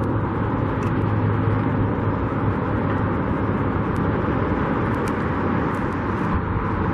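Steady outdoor background noise with a low engine hum, like road traffic running by.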